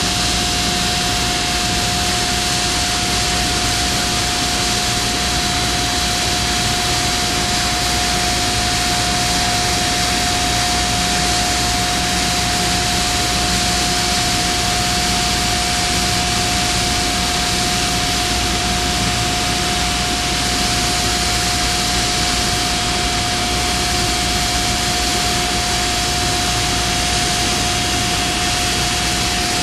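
Steady industrial machinery noise: an even hiss with a constant pitched hum over it, unchanging throughout.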